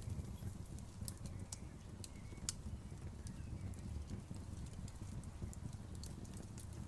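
Wood campfire burning, with irregular sharp crackles and pops over a steady low rumble; one pop stands out about two and a half seconds in.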